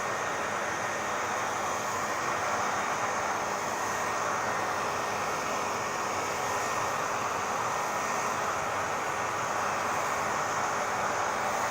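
Hair dryer running steadily: an even rush of air with a faint steady tone in it, unchanging throughout.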